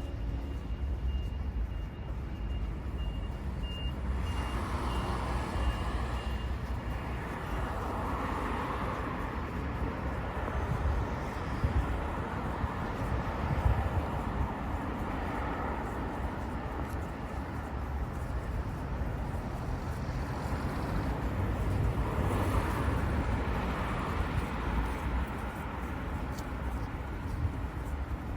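City street traffic: vehicles passing over a steady low rumble, rising and fading a few times. A short high beep repeats during the first several seconds.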